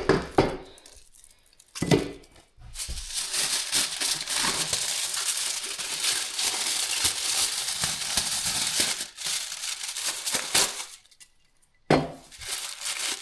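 Packaging crinkling and rustling as it is handled and unwrapped, a dense run of crackles lasting several seconds, with a short knock about two seconds in and a thump near the end.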